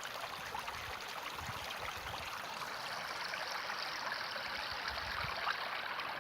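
Running water of a stream flowing steadily, an even rushing hiss.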